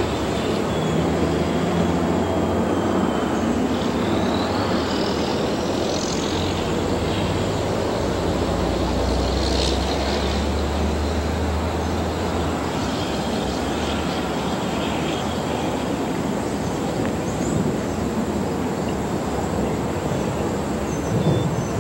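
Freight train running on the tracks: a steady rumble of wheels on rail, with a low diesel engine drone that fades away about twelve seconds in.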